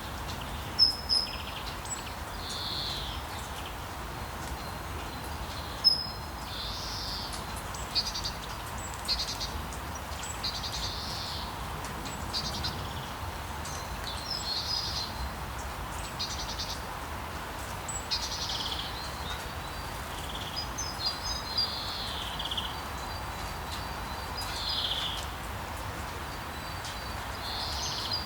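Small birds chirping, short high calls every second or two, a couple of them sharp and loud, over a steady wash of sea waves.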